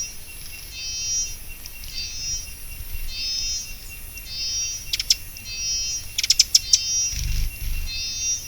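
Repeated high-pitched animal calls, a buzzy phrase about once a second, with a few sharp clicks past the middle and low thumps near the end.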